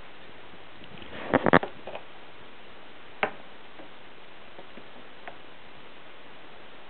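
Cats pouncing on and batting a toy bird on a string: a quick cluster of sharp taps and knocks about a second in, then a single knock a couple of seconds later and a few faint taps.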